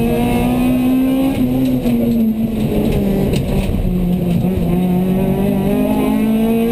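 Honda Civic 1.6 VTi rally car's four-cylinder engine pulling hard at high revs, heard from inside the cabin. The engine note dips about a second and a half in, drops lower around two seconds in, then climbs steadily through the last few seconds, with a couple of short knocks from the car along the way.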